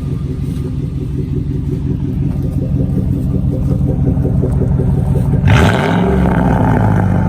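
Lincoln Navigator engine idling through a Carven R Series exhaust, then revved about five and a half seconds in: the exhaust note jumps louder and rises in pitch, then eases back while the engine is still above idle.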